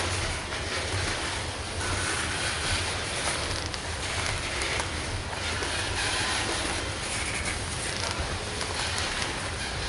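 Loaded coal train rolling past on the rails: a steady rumble of wheels and cars with a low hum underneath.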